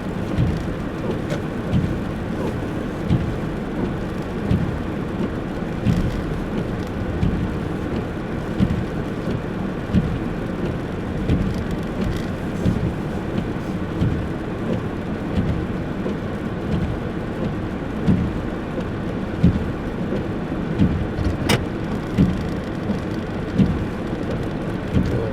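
Steady road and engine noise heard inside a moving car, with a soft thump recurring about every second and a half and a single sharp click about three quarters of the way through.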